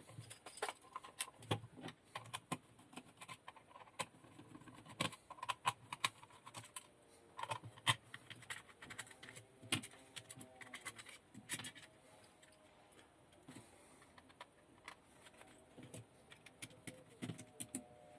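Irregular sharp clicks and taps of a small handheld electronics tester being handled and taken apart by hand.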